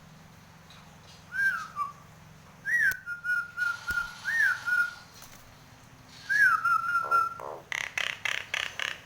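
Nias hill myna whistling: four loud phrases, each a quick up-and-down slur that settles into a held steady note, then a run of about six harsh rasping notes near the end. The owner calls the bird over birahi, over-excited in breeding condition.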